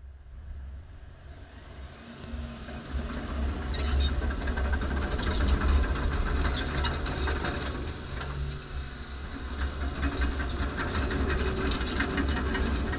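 Volvo EC220EL tracked hydraulic excavator running, its diesel engine a steady low drone. From about three seconds in it grows louder, with rattling, clanking and squealing from the steel tracks and undercarriage as the machine works.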